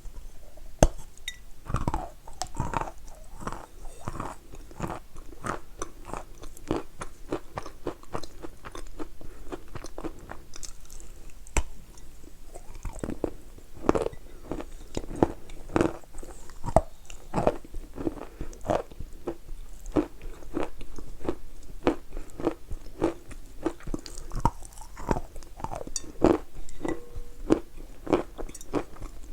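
Close-miked crunchy biting and chewing of dry eating chalk and pasta, with sharp crunches coming one or two a second.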